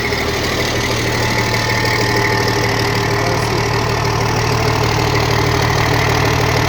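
Bulldozer's diesel engine running steadily at idle on a test run just after an engine repair.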